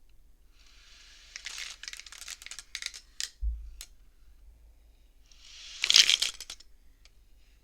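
Wooden beads of a bead-frame abacus slid along their rods: a rustling slide with small clicks, a dull low bump midway, then a longer slide that ends in a sharp clack of beads about six seconds in.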